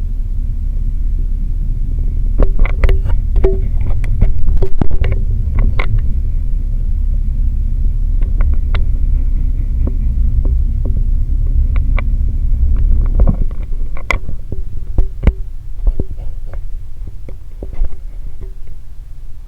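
Alaska Railroad freight train rolling past: a steady low rumble of the cars with irregular clicks and clunks from the wheels on the rails. The heavy rumble drops off about two-thirds of the way through, leaving lighter scattered clicks.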